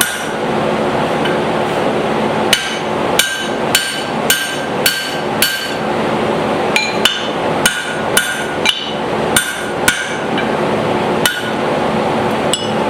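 Blacksmith's hand hammer striking a drift through the eye of a hot forged hammer head on an anvil, about fourteen ringing blows in runs of roughly two a second with short pauses. A shop fan runs steadily underneath.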